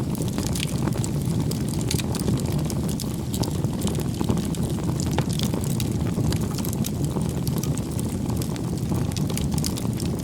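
Wood campfire burning: a steady low rush of flame with many irregular sharp crackles and pops.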